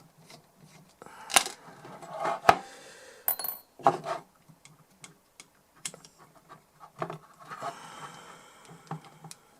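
Screwdriver working rusted screws out of a metal DI box: a string of sharp metal clicks and clinks with some scraping, and a brief high squeak about three seconds in.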